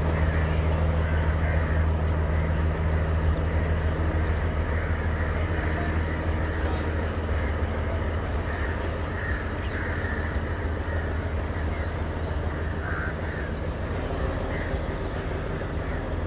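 Diesel passenger train running slowly past with a steady low engine drone that eases off slightly, while crows caw several times over it.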